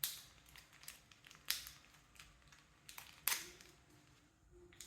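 Plastic snack packet crinkling as it is handled, with a few sharp crackles and fainter rustles between them.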